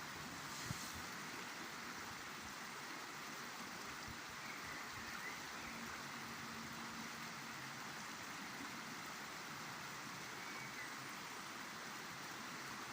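Steady rush of river water flowing, with no pauses or changes.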